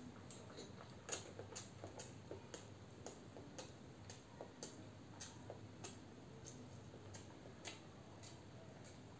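Faint, irregular wet mouth clicks of chewing boiled egg, about two a second.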